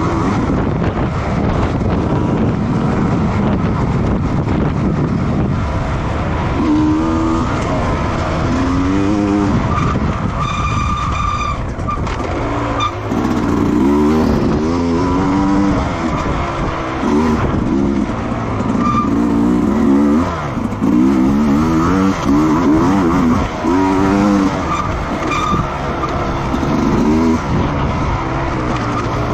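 Racing motorcycle engines revving up and down again and again as bikes accelerate, shift and pass. A short steady high tone sounds for about a second and a half near the middle.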